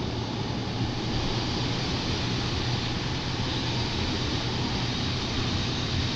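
Steady rush of wind and surf with a constant low rumble of wind on the microphone.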